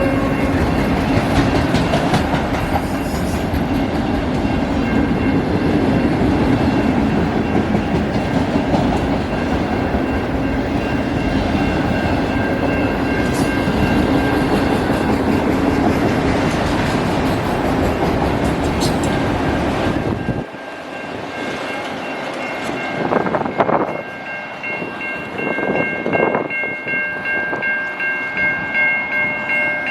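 Autorack freight train rolling past: a loud, steady rumble of wheels on rail that drops off suddenly about two-thirds of the way through as the cars clear. After that, several steady high ringing tones remain, swelling and fading in a regular rhythm.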